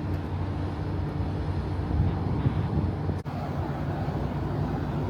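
Steady low rumble of a car driving on the highway, road and engine noise. It briefly drops out about three seconds in.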